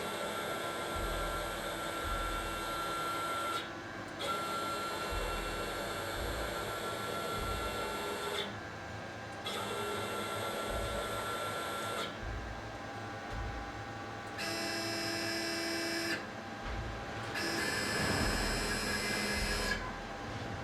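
Stepper-driven ball-screw axis of a Chinese 6090 CNC router being test-jogged after its bearing rebuild: a steady motor whine in five runs of a few seconds each, with short stops between them. The last two runs whine at a different, higher pitch.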